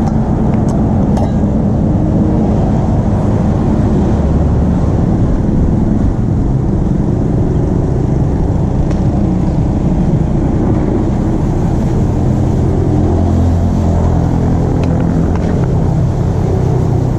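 Motor vehicle engines running, a steady low rumble whose pitch drifts up and down.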